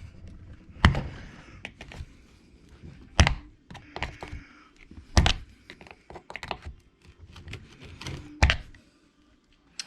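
Hand tools and small parts being handled on an RC truck: four sharp knocks, about one, three, five and eight and a half seconds in, with light clicking and clattering between.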